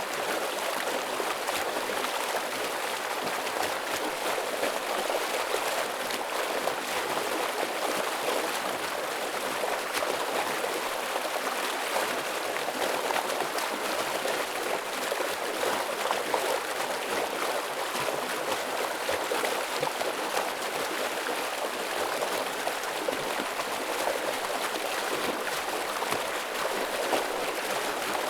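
Forest stream with heavy water flowing and splashing over rocks, a steady rushing with fine splashes throughout.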